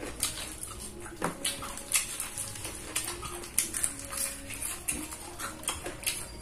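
Two people chewing and biting fried chicken wings and rice: irregular smacking and clicking mouth sounds.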